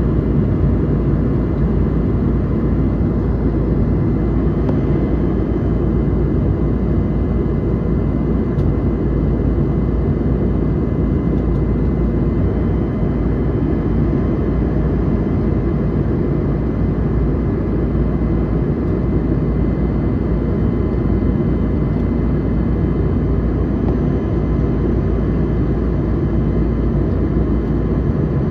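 Steady low vehicle rumble with a few faint steady hum tones, unchanging throughout.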